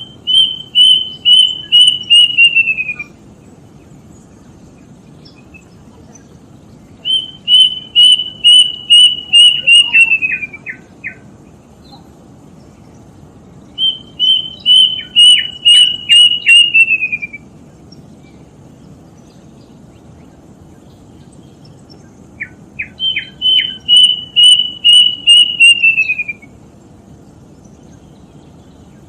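Kedasih cuckoo (Cacomantis) singing four phrases, each a run of about eight whistled notes that slides down in pitch toward the end, repeated roughly every seven seconds.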